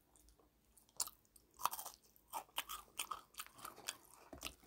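A person chewing crispy Korean fried twigim coated in tteokbokki sauce close to the microphone, with irregular crunches from about a second in.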